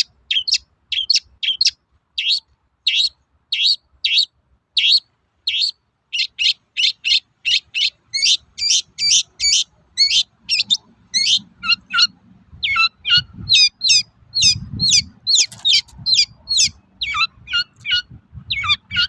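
Long-tailed shrike (cendet) giving its rapid, repeated 'toet-toet' call: a string of short, sharp high notes about two to three a second, with brief gaps. Many notes in the second half end in a quick downward slur.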